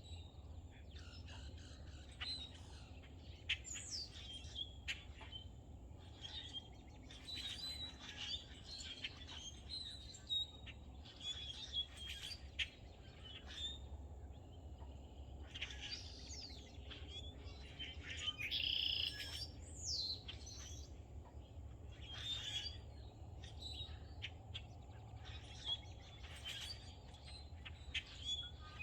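Several wild birds chirping and singing, with short chirps and quick falling whistles coming one after another, over a steady low hum.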